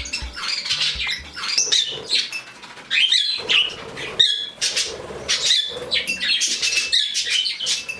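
A room full of pet birds chirping and chattering together in a dense, unbroken stream of overlapping calls, with a few louder calls standing out.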